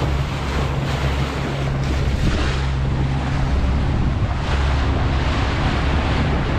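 Boat engine running steadily under way, a constant low hum, with water rushing past the hull and wind buffeting the microphone.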